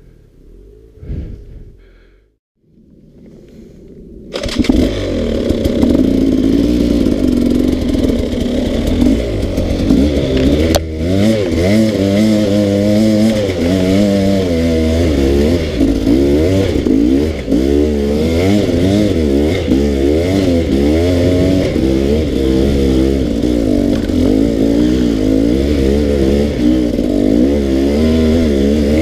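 Dirt bike engine, faint at first, then running loud from about four seconds in, its pitch rising and falling over and over as the throttle is opened and backed off on a steep trail climb.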